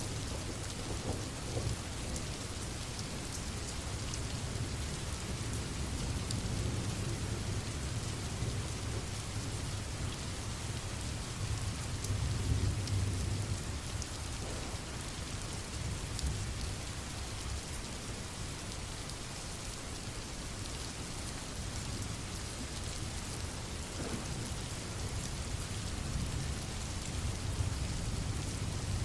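Steady rain pattering, with a low rumble of distant thunder that swells about twelve seconds in and again near the end.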